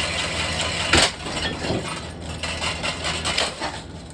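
A powered ceiling fan hums steadily while it is being smashed. There is one loud crack about a second in, then a few scattered knocks and rattles as the hum fades toward the end.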